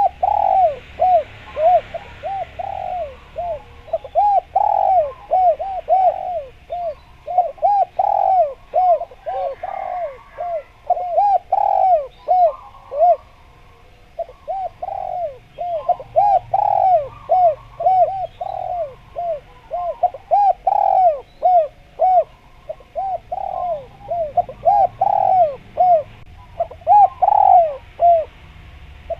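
Spotted dove (derkuku) cooing loudly and persistently: runs of short, arched coos repeated in quick succession, broken by brief pauses. Faint chirps of small birds sound behind it.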